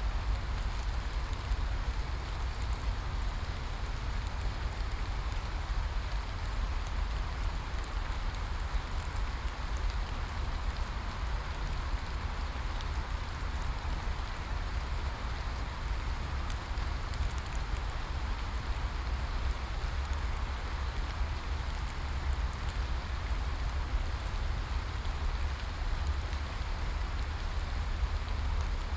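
Steady rain falling, an even hiss of drops with a deep low rumble beneath and faint scattered patters of single drops.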